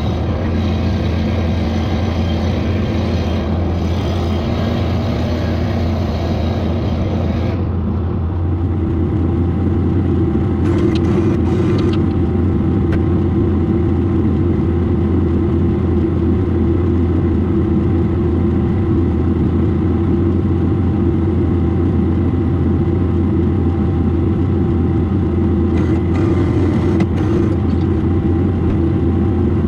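Vehicle engine running steadily with a constant low drone; about seven and a half seconds in, its tone changes as the higher sounds drop away.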